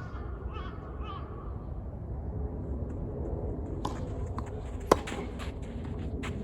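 Sharp knocks of a tennis ball on a hard court or a racket, a few of them from about four seconds in, the loudest just before five seconds, over a steady outdoor rumble. A faint distant voice is heard near the start.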